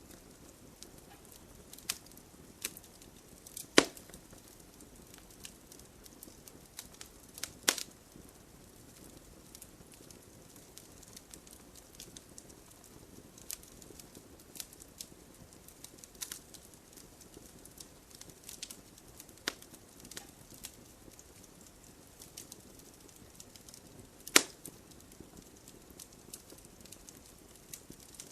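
Wood fire burning in a fireplace: a low steady hiss with irregular crackles and sharp pops from the logs, the loudest pops about 4, 8 and 24 seconds in.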